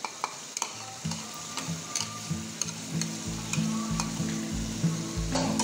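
Chicken and potatoes sizzling in an aluminium pot as garlic-ginger paste is added and stirred in with a metal ladle, with a few sharp ladle clicks against the pot. Background music with a steady bass line comes in about a second in and grows louder.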